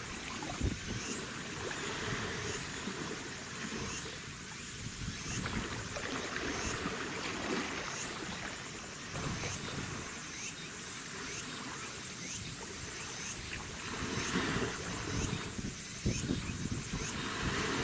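Harbour water sloshing and lapping, with wind buffeting the microphone.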